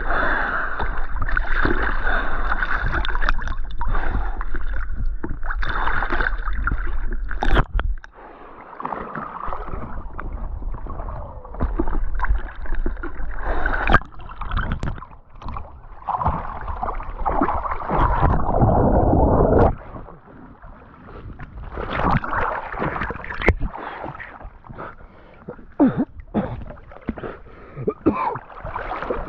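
River water gurgling and rushing around a kayak held in a stern stall, with splashes from the boat and paddle. The water noise is loudest for the first several seconds, drops away, then surges again for a couple of seconds partway through.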